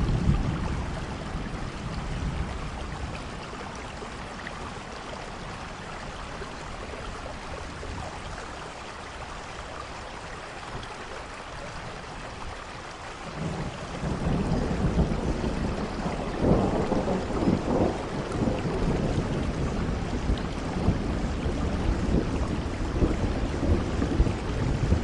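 Steady rainfall with thunder. A low rumble fades over the first couple of seconds, then a heavier rolling rumble builds about halfway through and carries on to the end.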